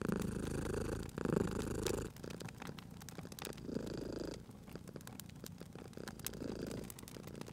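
Domestic cat purring in slow swells, one per breath, loudest over the first two seconds, with the pops and crackles of a wood fire scattered throughout.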